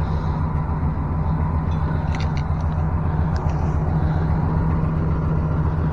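Pickup truck V8 engine idling steadily: a low, even rumble with a few faint clicks in the middle.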